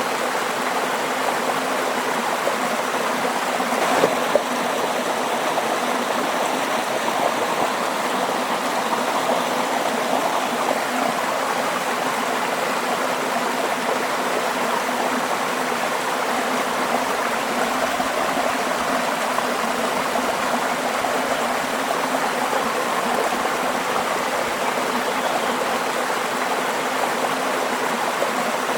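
Flowing stream water, a steady rushing and babbling with no break, and a brief splash or click about four seconds in.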